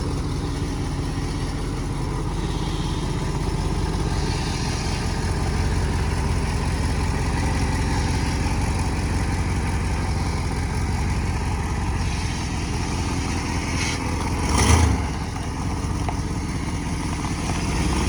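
A 1996 Ford F-250's 460 big-block V8 running steadily, with one short, louder burst about fifteen seconds in.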